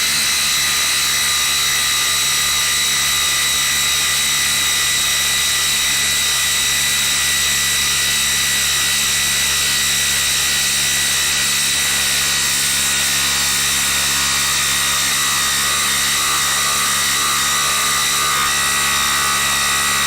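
Cordless brushless impact driver hammering steadily at full speed, driving a long fastener in under continuous load.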